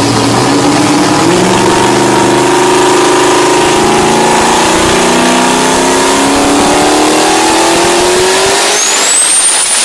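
Turbocharged car engine accelerating hard under load, its pitch climbing steadily for several seconds. Near the end a high whistle rises and holds as the engine note drops away.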